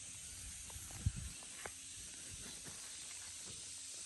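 Steady high-pitched hiss of outdoor field ambience, with a few faint soft knocks about a second in.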